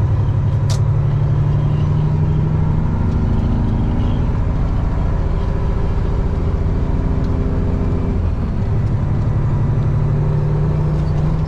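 Semi-truck diesel engine running, its pitch rising and falling a few times as the truck is driven, with one sharp click near the start.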